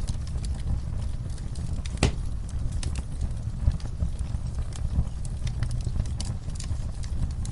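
Wood fire crackling: scattered sharp pops and snaps over a low steady rumble, with one louder pop about two seconds in.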